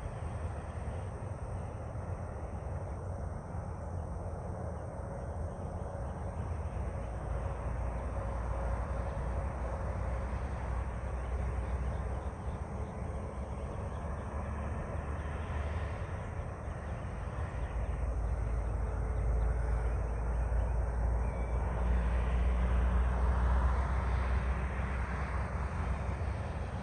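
Outdoor ambience: a steady low rumble with a hiss over it, swelling louder for several seconds in the second half.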